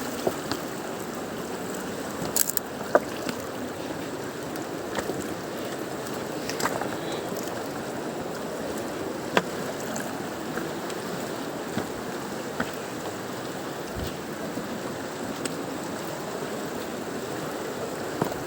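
Katun mountain river rushing, a steady wash of fast water, with a few short sharp clicks scattered through it.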